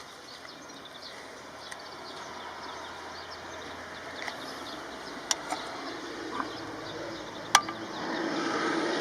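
Outdoor background noise, steady, with a few sharp clicks and a swell near the end.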